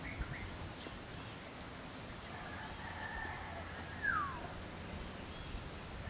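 Tropical forest ambience with scattered faint bird notes and a faint steady high-pitched tone. About four seconds in, a bird gives one louder short whistled note that falls in pitch.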